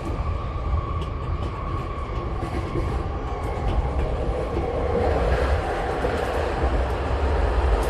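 Yamanote Line electric commuter train running along the track, a steady low rumble of wheels and running gear heard from inside the train. A faint whine fades out in the first couple of seconds.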